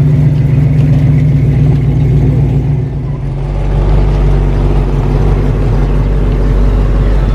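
Car engines running: a steady engine drone that fades about three seconds in as a deeper engine rumble takes over.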